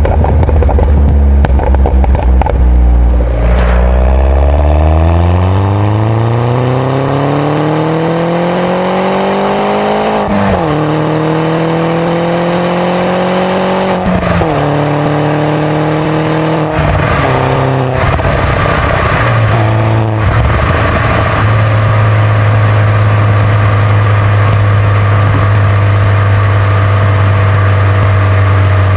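2011 Mini John Cooper Works' turbocharged 1.6-litre four-cylinder engine and stock exhaust pulling hard through the gears, the engine note climbing and then dropping at each of several upshifts. It then settles into a steady cruise.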